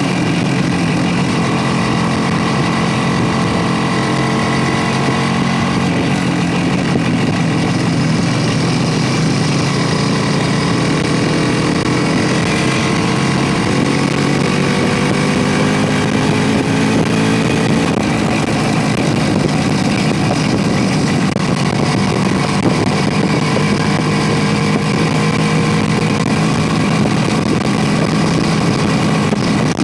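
Motorcycle engine running while riding, its pitch slowly rising and falling as the revs change, over a steady rushing noise.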